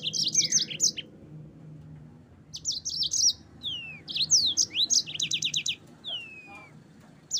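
Yellow-fronted canary (Mozambique canary) singing: quick phrases of high chirps, rapid trills and sliding whistled notes. There is a short pause about a second in, and the song drops off near the end.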